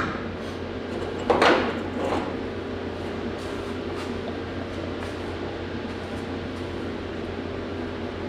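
A steady electrical or fan hum, with a short, loud clatter about a second and a half in and a smaller one half a second later.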